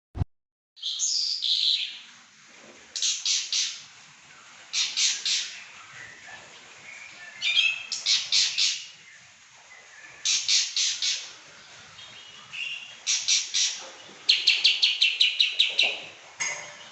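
Pakling songbird singing persistently in repeated short phrases of quick, high notes, one every couple of seconds, with a longer rapid trill near the end.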